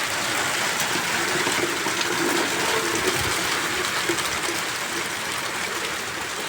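Steady rain with water pouring off the roof into a collecting bucket, a continuous rushing splash.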